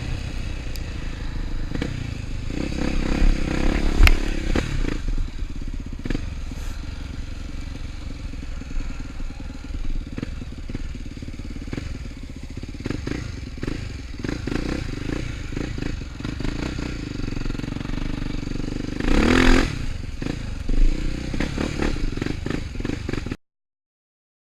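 Trail motorcycle engine running, with frequent knocks and rattles, as the bike rides over rough ground. There is a short rising rev near the end, and then the sound cuts off suddenly.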